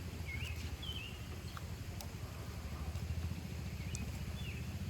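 Birds chirping in short warbling calls several times over a steady low rumble, with a few faint clicks.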